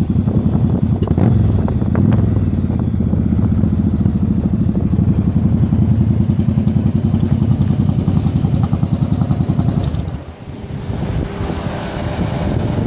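Yamaha Virago 1100 V-twin motorcycle engine running on the move, its exhaust pulsing fast and strong, then easing off sharply about ten seconds in as the throttle is closed.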